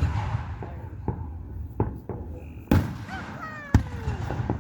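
Fireworks display: a series of aerial shell bursts, sharp bangs about a second apart over a steady low rumble, the loudest two near the middle and toward the end.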